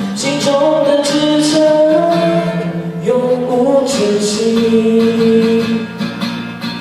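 Voices singing long held notes of a song over acoustic guitar accompaniment, easing off near the end.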